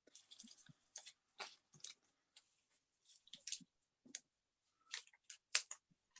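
Faint, irregular clicks and rustles of paper and small craft pieces being handled on a craft table, with one sharper click about five and a half seconds in.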